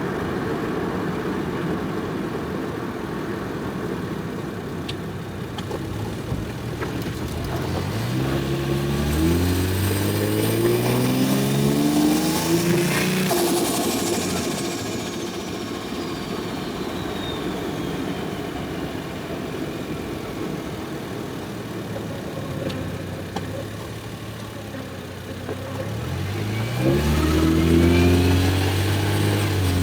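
Single-turbo Toyota 1JZ 2.5-litre straight-six cruising, then pulling hard twice, its note climbing through the revs each time. At the top of the first pull comes a sharp burst as the throttle closes, and then a high turbo whistle falls away over several seconds.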